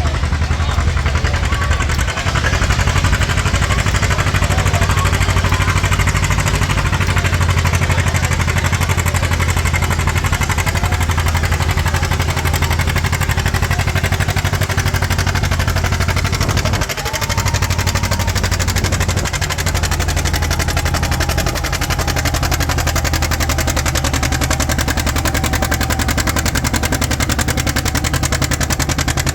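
Pulling tractor's engine running hard at full throttle, loud and steady, with a short dip in level about halfway through.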